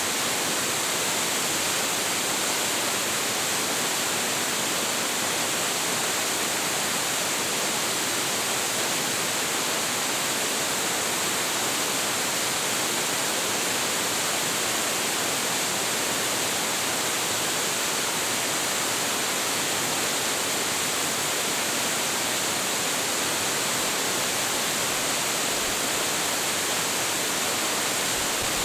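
Hiji Falls, a 25.7 m high-volume waterfall, pouring steadily: an even, unchanging rush of falling water, mostly hiss with little low rumble.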